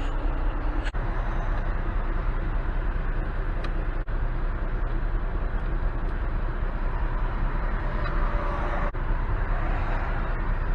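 Heavy diesel equipment at a highway asphalt-grinding job running steadily: dump truck engine and milling machine, a continuous low rumble with hiss and a few very brief dropouts.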